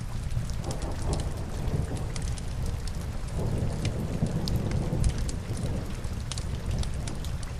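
Steady rain with a deep rumble underneath that swells twice, about a second in and again around four seconds, like distant thunder, while scattered sharp crackles and pops of burning logs sound over it.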